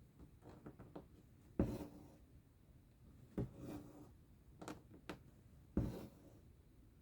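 Cross-stitch needle and thread working through fabric. Three sharp taps, each followed by a short rasp as the thread is drawn through, come about every two seconds, with lighter ticks in between.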